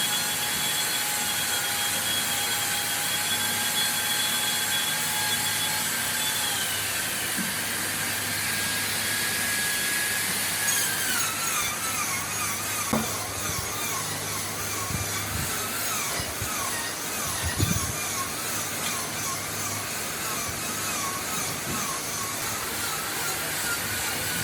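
An electric power tool's motor running on wood with a steady whine. Its pitch drops twice as it takes up load, then wavers up and down while it cuts, with a couple of knocks partway through.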